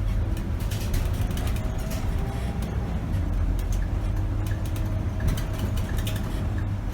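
Diesel engine of a 2008 Scania K270 city bus running while it drives, a steady low rumble heard from the driver's cab, with scattered clicks and rattles throughout.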